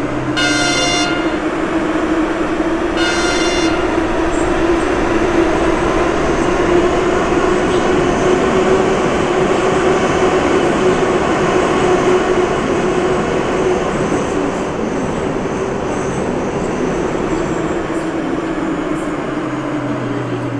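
Moscow Metro train running at speed between stations, heard inside the car: a loud, steady rumble of wheels and motors with a humming tone. Two short high tones sound in the first few seconds.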